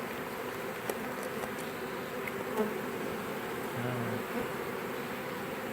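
Honeybee swarm buzzing in a steady hum as the bees move into a new hive.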